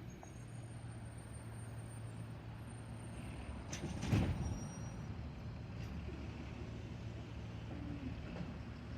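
Autocar Xpeditor garbage truck with a Bridgeport Ranger automated side-loader body, its engine running steadily. A loud, short burst of noise about four seconds in fades within half a second.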